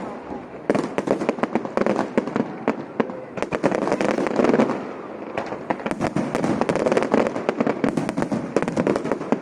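Aerial fireworks going off in dense volleys of rapid crackling pops and bangs, with brief lulls just after the start and about three seconds in.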